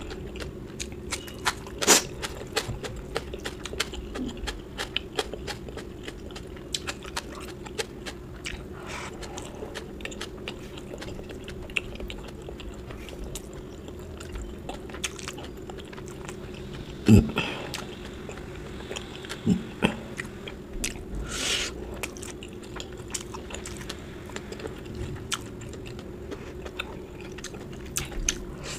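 A person chewing and biting food close to the microphone, with many small clicks and a few louder knocks, the loudest about 17 seconds in. A faint steady hum runs underneath.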